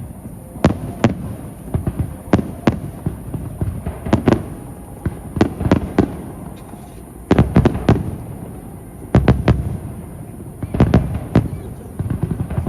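Aerial fireworks shells bursting in a rapid series of sharp bangs, each with a low rumbling echo, some coming singly and others in quick clusters of three or four.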